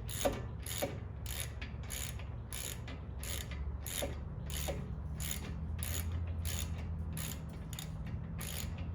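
Ratchet wrench with a 13 mm socket clicking steadily, about two clicks a second, as it tightens the nut on a front brake caliper.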